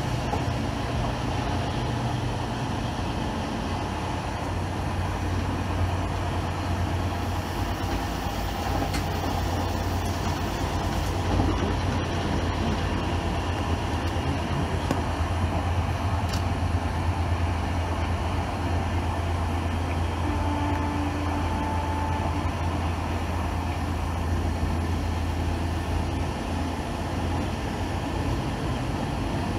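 Passenger train running along the line, heard from inside: steady rolling noise over a strong low hum, which weakens near the end.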